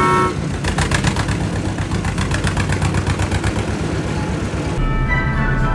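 Tractor engine running with a rapid, even chugging pulse, right after a short horn toot. About five seconds in it cuts abruptly to background music.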